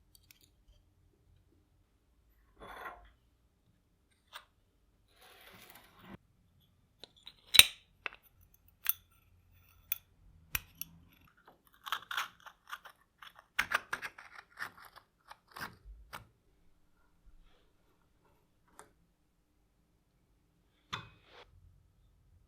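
Hands handling small parts at a workbench: a series of separate sharp clicks and knocks, the sharpest about a third of the way in, with short stretches of scraping or rustling between them.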